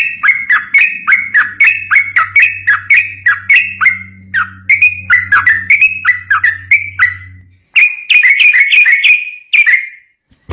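Yellow-vented bulbul (trucukan) calling rapidly and continuously in a string of short, bubbly gliding notes, about three a second, with a brief break past the middle and a short silent gap near the end. A faint low hum lies under the first part.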